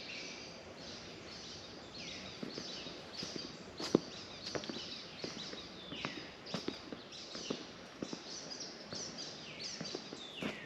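Wild songbirds singing, a steady stream of short, high, downward-sliding chirps, with a few scattered sharp clicks; the loudest click comes about four seconds in.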